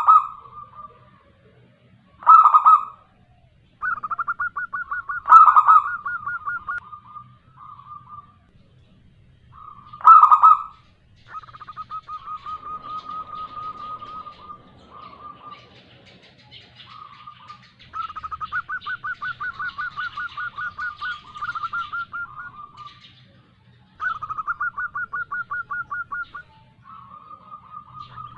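Zebra dove (perkutut) calling, described as a female, in repeated phrases of rapid staccato cooing notes. Four loud short coos come in the first ten seconds, then longer rattling trills.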